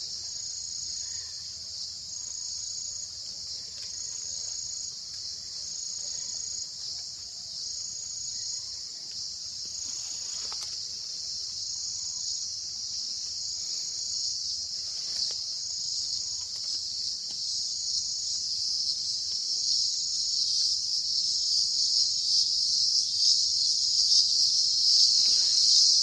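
A chorus of insects buzzing in a steady, high shrill drone, with a higher pulse repeating about every second and a half. It grows steadily louder.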